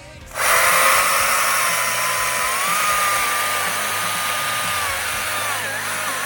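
STIHL battery chainsaw's electric motor starting abruptly and running at full speed: a high whine over the chain's hiss. The pitch holds steady, then wavers and dips briefly near the end.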